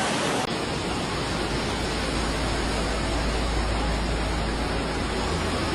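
Steady, loud rush of a wind and rain storm, with no distinct events. About half a second in the sound changes abruptly, as one recording cuts to another, and a low rumble is stronger after that.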